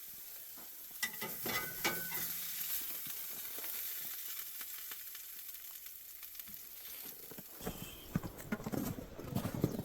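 Burgers sizzling steadily as they fry, with a few metal utensil clinks about a second in and some knocks near the end.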